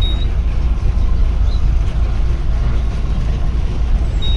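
A safari vehicle's engine running with a steady low rumble, with a few faint short bird chirps, one right at the start and one near the end.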